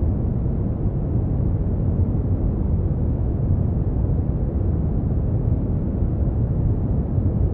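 Brown noise: a steady, deep rumbling hiss, strongest in the bass and dull in the treble, unchanging throughout.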